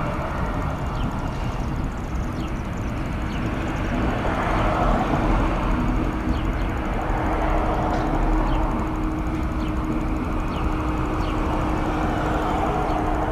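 A train rolling slowly past, a steady rumble and rattle with a faint constant hum. Short, faint high squeaks recur about once a second.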